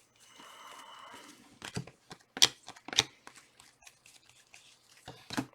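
Trading-card packs and cards being handled: a soft rustle or tear of a pack wrapper, then a few sharp clicks and snaps of cards being handled.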